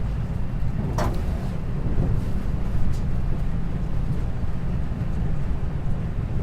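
Interior running sound of a 521-series electric multiple unit motor car under way: a steady low rumble of wheels on rail. A sharp click comes about a second in, and a fainter one near three seconds.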